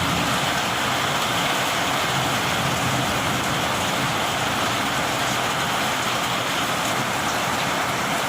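Heavy rain falling steadily as a dense, even hiss, with no thunderclap.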